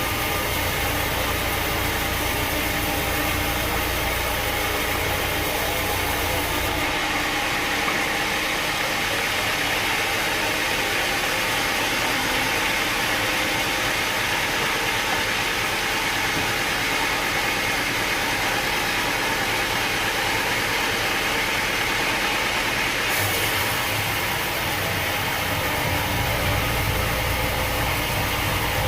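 Sawmill machinery running steadily, a continuous mechanical drone. The deep rumble drops away about seven seconds in and comes back near the end.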